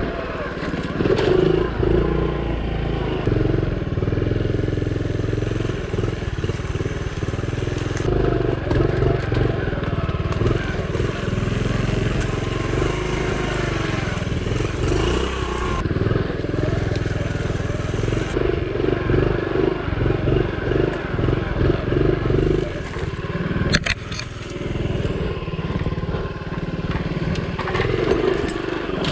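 Honda CT70's small single-cylinder four-stroke engine running continuously as the bike is ridden over rough, muddy trail, the revs rising and falling with the throttle. A few sharp knocks break through, the clearest near the end.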